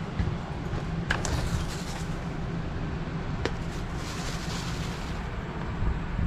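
Electric RV awning motor running steadily as the awning rolls out, with a couple of light clicks.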